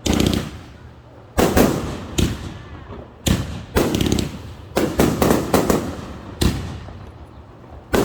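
Fireworks going off in a rapid series of about a dozen sharp bangs, several in quick clusters of two or three. Each bang trails off in a ringing echo.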